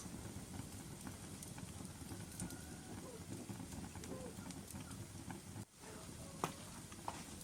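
Wood fire burning in a fireplace: logs crackling in a dense steady patter with scattered sharp pops, the loudest about six and a half seconds in. The sound cuts out for an instant just before six seconds in.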